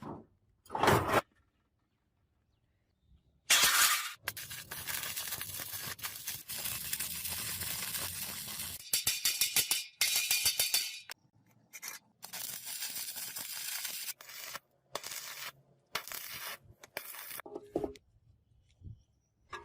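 Harsh scraping noise in a series of bursts, the longest lasting about five seconds, with a fast rhythmic rasp in one burst and shorter bursts near the end. Two brief knocks come about a second in.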